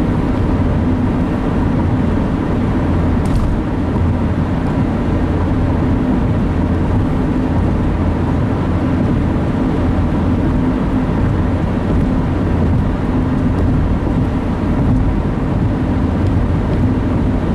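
Steady road and engine noise heard inside a moving car's cabin, a continuous low rumble with no change.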